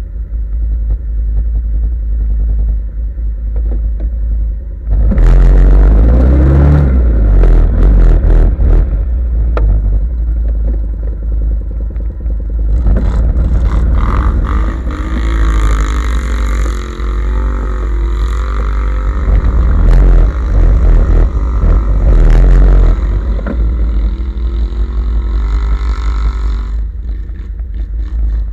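Off-road vehicle engine revving hard through mud. It surges in suddenly about five seconds in and again runs loud from about thirteen seconds until near the end, with clattering over a steady low rumble.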